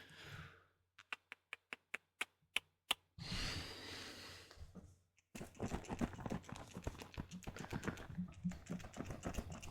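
Typing on a computer keyboard: single key clicks at first, a short hiss about three seconds in, then quick continuous typing.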